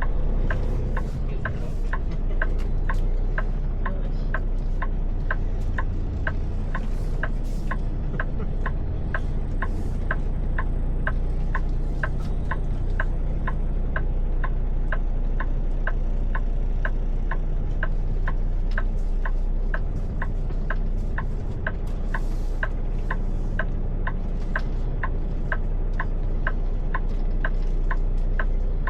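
Steady low rumble of an idling truck, with a regular clicking about twice a second, typical of a turn-signal or hazard flasher relay.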